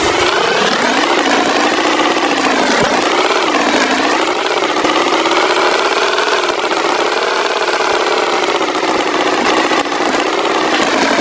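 An engine running steadily, its pitch slowly wavering up and down.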